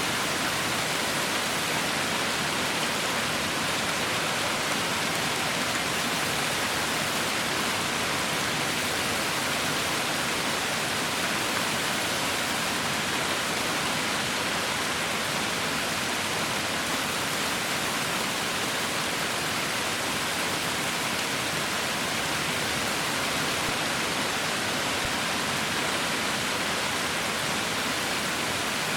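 Heavy rain falling steadily, an even hiss of dense drops without a break.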